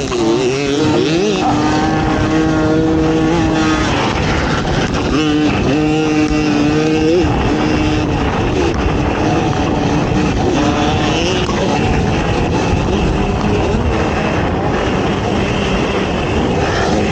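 ATV engine revving hard during an off-road race, its pitch climbing and holding twice in the first several seconds, then rising and falling unevenly over a constant rough rushing noise.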